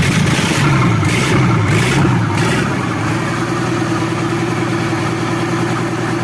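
Rebuilt Toyota forklift engine running just after it has caught on its first start, pitch rising and falling unevenly for the first couple of seconds, then settling into a steady idle.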